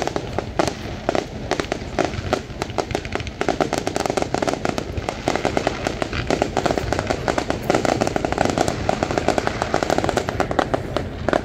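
Fireworks display: aerial shells bursting with a dense, rapid series of bangs and crackles.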